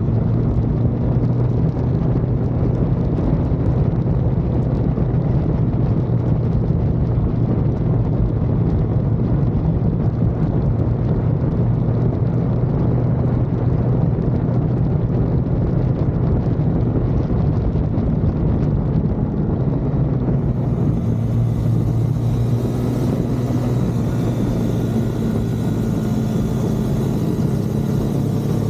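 Car engine running under steady load at track speed, with constant tyre and wind noise.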